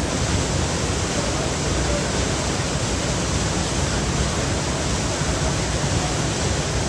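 A waterfall's falling water rushing steadily, as a loud, even, unbroken noise.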